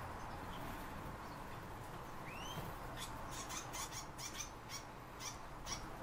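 Small cage birds calling: one rising call, then a quick run of short, sharp chirps, about three or four a second.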